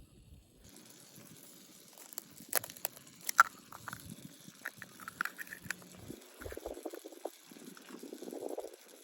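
Several sharp clicks and clinks of small objects being handled, the loudest about three and a half seconds in, with softer rustling near the end.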